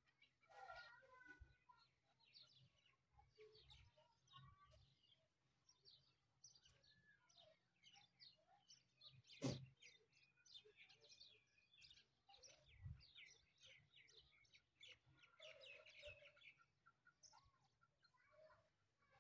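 Faint, busy chirping of birds, many short notes, thickest about three-quarters of the way through, with one sharp click about halfway through.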